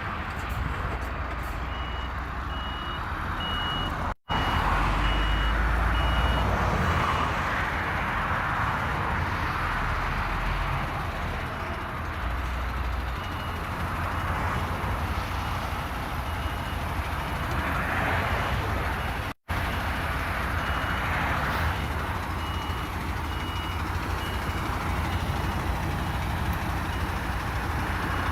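Semi-truck tractor unit reversing: its diesel engine runs while the reversing alarm beeps at an even pace, about one beep every two-thirds of a second. The beeping is loud near the start and fainter later on. The sound cuts out briefly twice.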